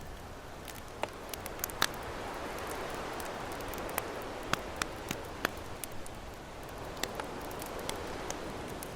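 Campfire crackling, with irregular sharp pops and snaps, over a steady wash of ocean waves breaking on a beach.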